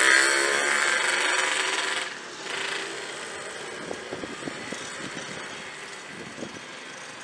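Diesel-hauled passenger train approaching a station from a distance: a steady engine-and-rail noise that drops sharply about two seconds in, followed by a quieter stretch with faint, irregular knocks.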